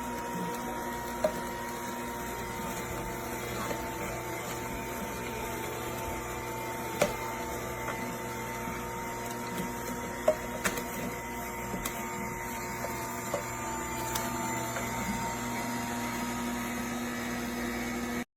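Cold-press juicer running: a steady motor hum and whine with a few sharp clicks, cutting off suddenly at the end.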